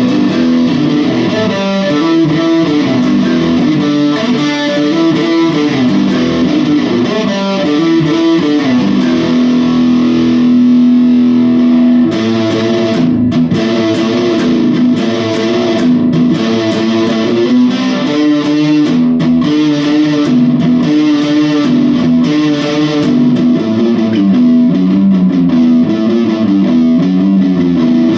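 Electric guitar, a Reverend Charger HB on its bridge pickup, played through a TC Electronic Grand Magus distortion pedal into a Blackstar Debut 50R amp. It plays distorted riffs, holds one note for a few seconds about a third of the way in, then goes back to quicker picked phrases.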